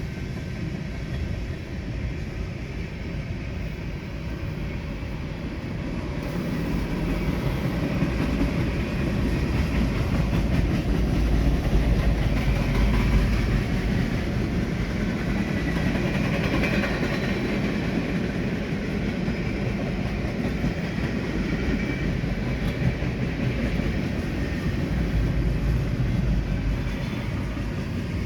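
Freight train cars rolling past with a steady rumble of wheels on rail. It grows louder about seven seconds in and stays loud.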